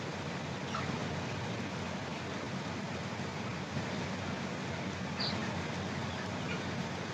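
A few faint, short, high peeps from chicks over a steady rushing noise.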